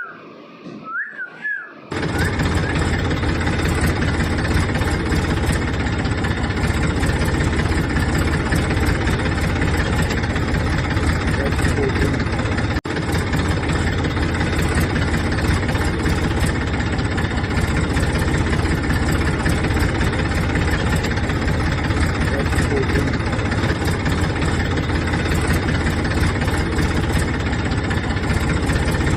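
A short whistle rising and falling twice. Then a tractor engine starts running steadily with a low, rhythmic diesel-like rumble, broken by a brief dropout about thirteen seconds in.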